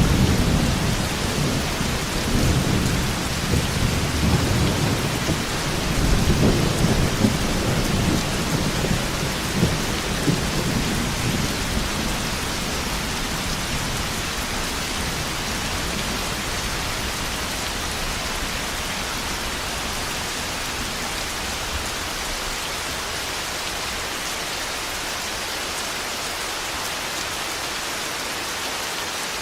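Heavy rain falling steadily with rolling thunder rumbling through the first part, loudest near the start and again about six seconds in, then dying away to rain alone.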